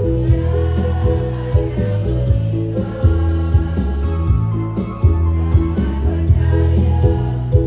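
Choir of older adults singing with a backing accompaniment that has a bass line and a steady beat.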